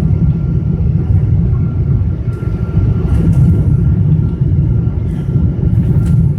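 Cabin noise inside a Boeing 777-200ER airliner during landing: a loud, steady low rumble of airflow and engines with a faint steady whine, and a few brief clicks.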